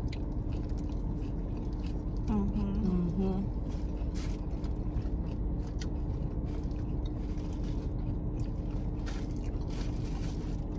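Close-miked biting and chewing of a fish taco, with many short, crisp clicks and crunches, over a steady low hum.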